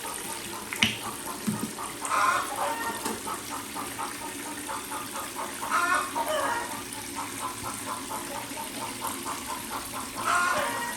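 A chicken clucking in a quick, steady run of short notes, with louder calls about two, six and ten seconds in.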